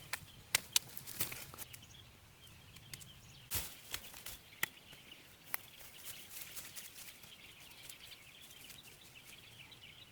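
Scattered light taps and knocks, a few at the start and then only every second or so, over a faint steady high hiss of outdoor ambience.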